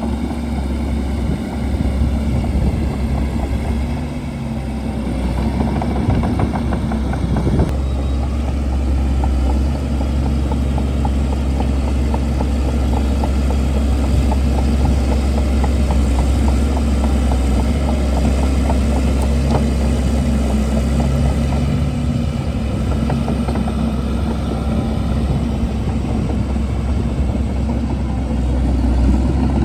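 Shantui DH17C2 bulldozer's diesel engine running steadily, a deep low drone with a brief change about eight seconds in.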